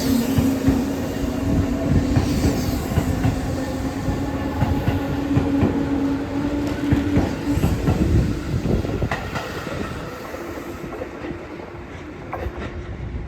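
Electric commuter train running along the platform: wheels clacking over rail joints over a steady motor hum. The hum stops about seven seconds in and the clacking fades away as the train draws off.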